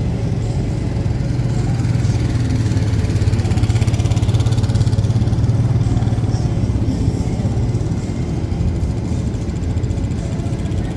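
Aerobatic airplane's engine droning through a pass, swelling to its loudest a few seconds in and then easing off.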